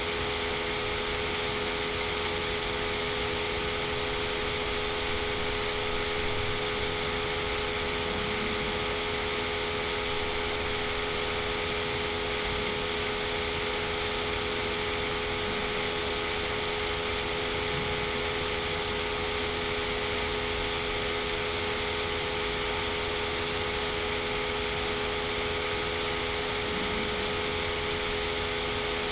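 Steady background hum and hiss, unchanging throughout, with a few fixed steady tones in it.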